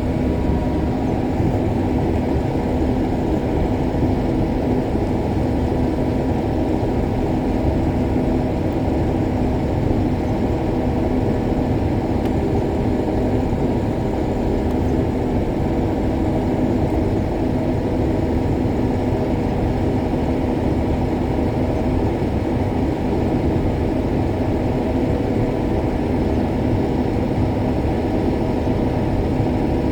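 Combine harvester running steadily while harvesting soybeans: an even engine and machinery hum with a few steady tones, unchanging throughout.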